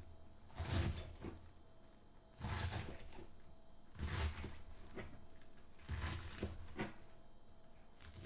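Kitchen knife cutting through vegetables down onto a cutting board, a stroke about every second and a half, each a short rasping cut ending in a dull knock.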